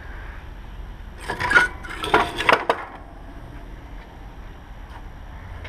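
Metal pieces clinking and clattering as they are handled, a quick cluster of knocks between about one and three seconds in.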